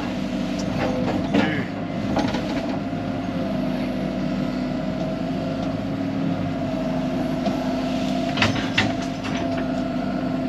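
Excavator's diesel engine running steadily as it works in mud, with a few sharp metallic clanks about a second in and again near the end.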